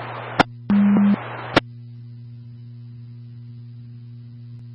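Scanner radio between transmissions: a click, a short low steady beep of about half a second, another click, then a steady electrical hum on the open channel.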